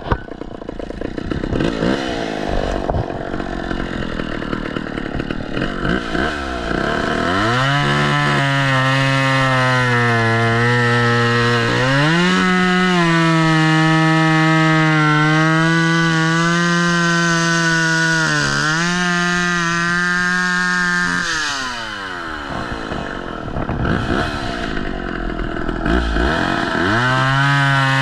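Chainsaw engine running at low speed, then throttled up about seven seconds in and held at high revs for some fourteen seconds with small shifts and a brief dip in pitch. It drops back to a low, uneven speed and revs up again near the end.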